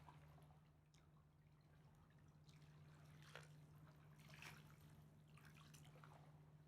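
Near silence: faint, irregular drips and small water splashes over a steady low hum, with the clearest splashes about halfway through.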